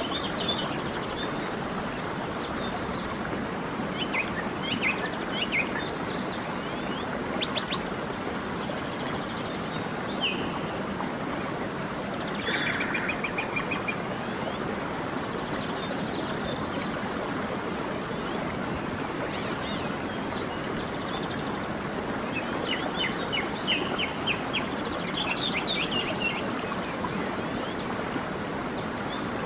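A creek's water running in a steady rush, with scattered bird chirps and short trills over it, the busiest runs of calls about a quarter of the way in and again near the end.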